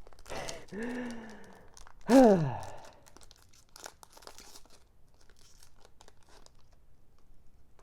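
Two wordless, drawn-out exclamations from a man, each falling in pitch, the second and louder one about two seconds in. They are followed by a few seconds of light crinkling and tearing, typical of a foil Pokémon booster pack being handled and torn open.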